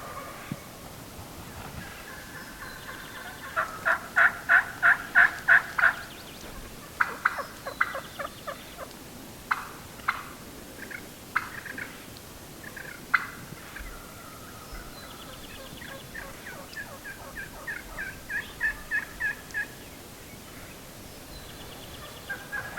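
Turkey calling: a quick run of about eight loud yelps a few seconds in, then scattered single sharp clucks, then a softer run of yelps near the end.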